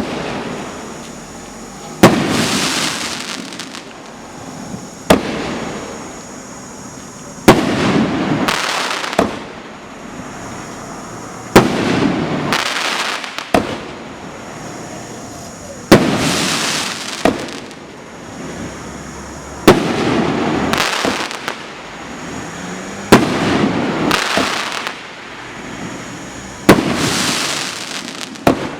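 A 500-gram consumer fireworks cake firing shot after shot: a loud report about every three and a half seconds, each followed by a second or two of crackling.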